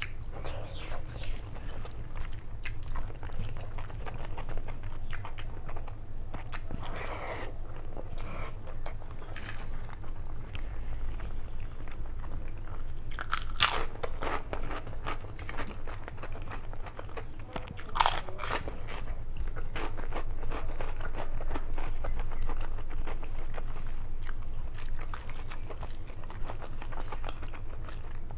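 Close-miked chewing and wet mouth sounds of someone eating mutton biryani by hand, with many soft clicks and smacks. Two louder sharp smacks come about halfway through, a few seconds apart, over a steady low hum.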